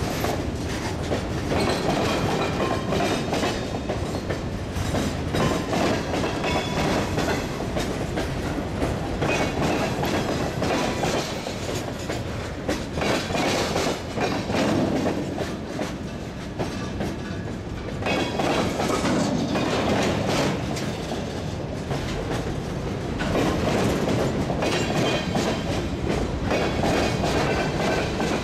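Freight cars of a manifest train (boxcars, tank car, flatcars, covered hoppers) rolling past close by. Their steel wheels click and clatter over the rail joints above a steady rumble that keeps on without a break.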